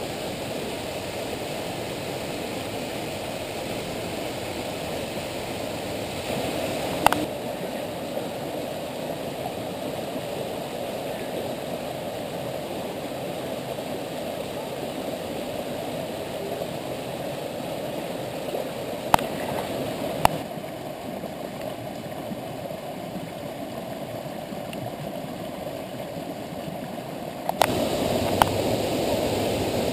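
Steady rushing of a shallow beck running low over rocks, with a few sharp knocks scattered through it. The water gets louder near the end.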